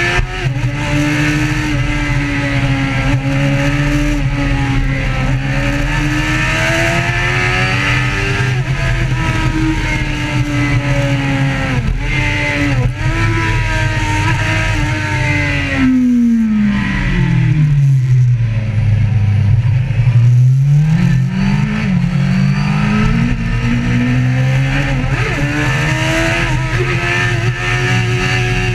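Motorcycle engine running under varying throttle, its pitch wandering up and down. About two-thirds of the way in it winds down to a low pitch, then climbs again as it accelerates.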